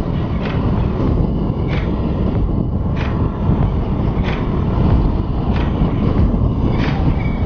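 Beta RR 125 LC two-stroke enduro engine running at a steady cruise, mixed with heavy wind rumble on the helmet-mounted camera. A faint sharp tick repeats evenly about every second and a quarter.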